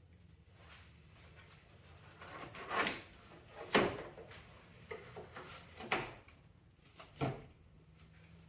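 Four short clunks and knocks, with rustling in between, as parts and tools are handled during hand work in a car's engine bay.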